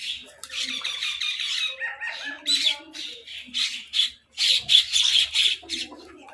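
Birds squabbling over food with harsh squawking calls. A rapid chattering run comes in the first two seconds, and a string of loud squawks follows about four to five and a half seconds in.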